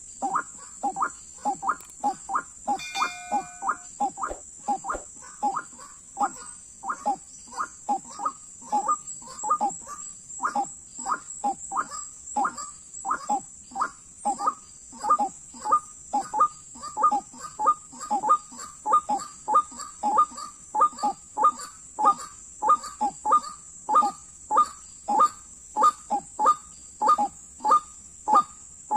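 White-breasted waterhen (ruak-ruak) calling: a long, monotonous series of short croaking notes, about two a second, with a steady high whine underneath.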